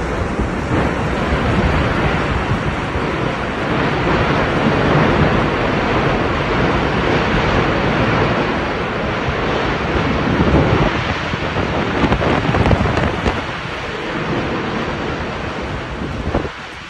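Strong tornado storm wind rushing and buffeting the microphone: a loud, continuous noise that eases off near the end.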